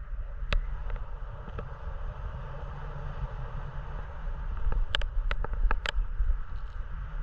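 Wind buffeting the microphone in flight under a paraglider, a steady low rumble and rush, with a few sharp clicks about half a second in and a quick cluster of them around five to six seconds.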